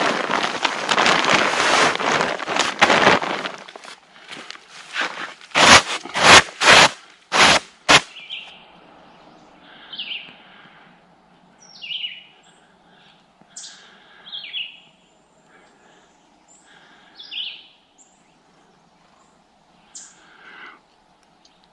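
A loud rushing noise for the first few seconds, then a quick run of about six sharp knocks, then a wild bird calling in short, high, downward-sliding chirps repeated every second or two.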